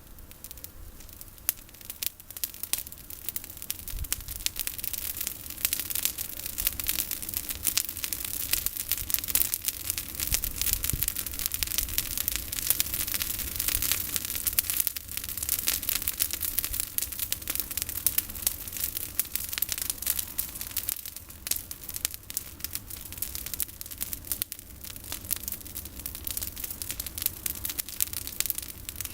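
Bonfire of pruned olive branches crackling, with dense snaps and pops that grow louder over the first few seconds.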